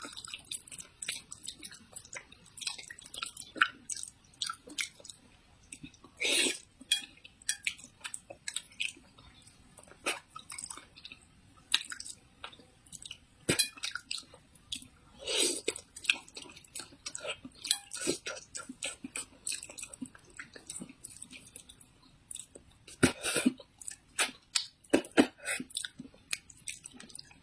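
A person chewing and eating close to the microphone, with many small wet mouth clicks and three louder, longer eating noises spread through.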